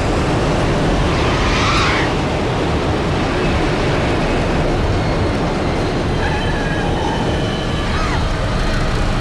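Learjet's engines running loud and steady in reverse thrust as the jet brakes on its landing roll, with a brief rising whoosh about two seconds in.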